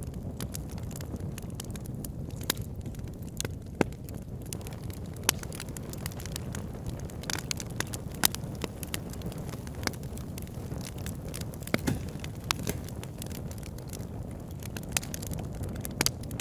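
Wood fire burning in a fireplace: a steady low rumble of flames with sharp crackles and pops at irregular moments.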